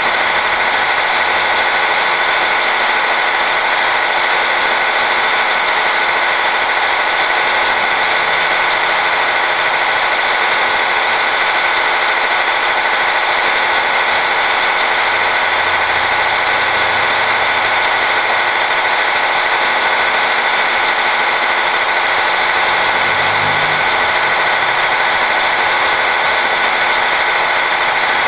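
Truck running steadily at cruising speed: a constant loud drone of engine and road noise with a few steady high tones over it.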